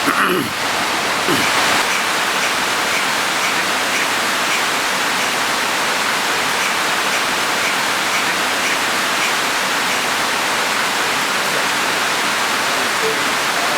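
Loud, steady rushing noise with no clear pitch, with a few faint, evenly spaced peeps in the first few seconds.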